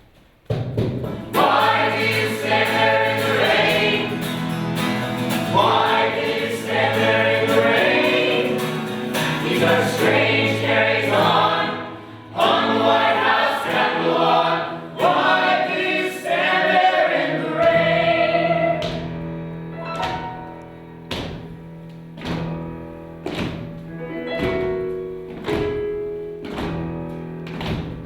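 A group of voices singing together over instrumental accompaniment; about two-thirds of the way through the voices stop and the accompaniment carries on alone with regular strokes about once a second.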